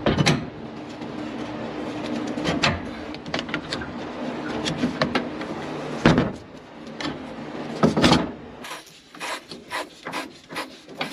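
Workshop clatter: several loud knocks and many smaller clicks and taps, like tools and parts being handled, over a steady low hum that stops about two and a half seconds before the end.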